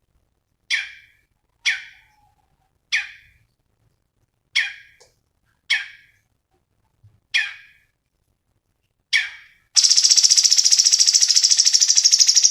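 Songbird calling: seven short, sharp calls spaced about a second or more apart, then, about ten seconds in, a loud, fast continuous trill.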